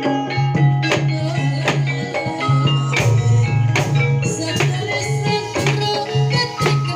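Javanese gamelan-style ensemble music accompanying a barongan dance: struck metallophones ring out quick pitched notes over drumming, with a low note pulsing steadily beneath.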